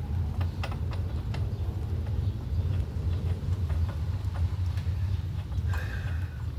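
Scattered light clicks and knocks of hand work on a lawn mower, over a steady low hum.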